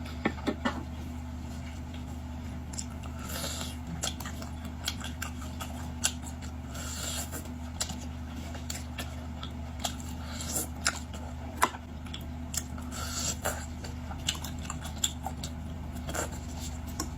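Sharp clicks and cracks of boiled shrimp and lobster shells being snipped and broken apart, with short crunching sounds in between, over a steady low hum.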